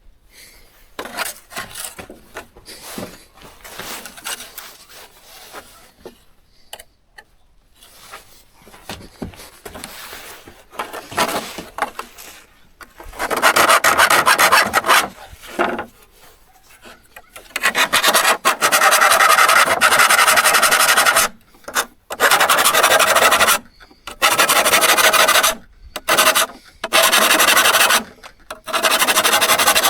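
A rusty steel hand-saw blade is being abraded by hand with a file or abrasive. Light rubbing and handling sounds come first. From about halfway there are long, loud rasping strokes, each one to three seconds, with short pauses between them and a faint metallic ring.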